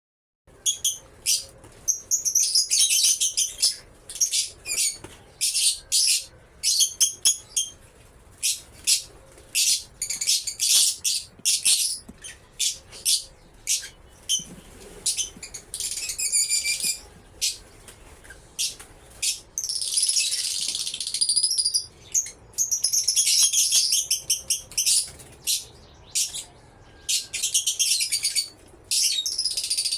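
Fischer's lovebirds giving high-pitched chirps in quick, repeated bursts, breaking at times into longer runs of continuous chatter.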